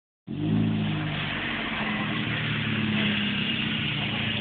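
2006 Scion xB's four-cylinder engine running steadily through an Apexi aftermarket exhaust, the exhaust note holding an even pitch.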